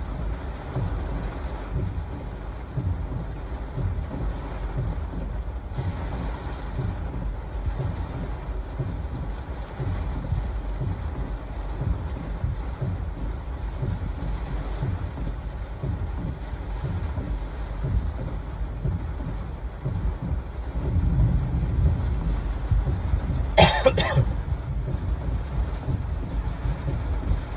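Heavy thunderstorm rain with strong gusty wind buffeting the microphone in a steady low rumble. The wind surges near the end, and a single sharp crack cuts through shortly before it ends.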